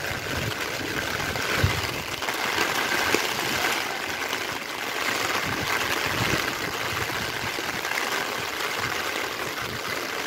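Heavy rain falling in a steady hiss, with rainwater running over the pavement.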